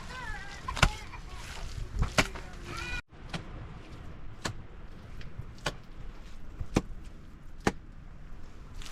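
Sharp knocks repeating about once a second, with a few short chirping calls in the first three seconds. The sound cuts out abruptly about three seconds in, then the knocks carry on.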